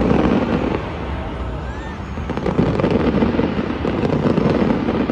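Fireworks going off in rapid, continuous succession, a dense run of bangs and crackles, with crowd voices underneath.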